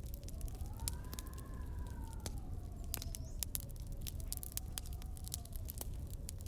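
Wood fire crackling with many sharp pops over a low rumble, while wind howls in one drawn-out tone that rises over the first second and then slowly falls away.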